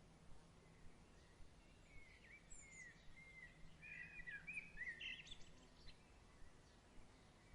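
Faint birdsong: a run of short chirps and warbling, gliding notes from about two seconds in until past five seconds, over a soft steady outdoor background.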